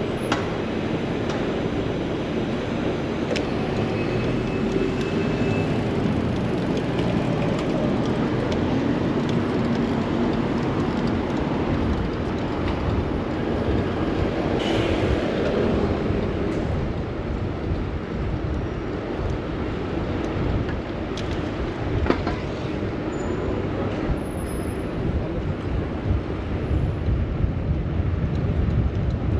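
Steady city street traffic noise heard from a moving bicycle: a continuous low rushing noise with no single sound standing out.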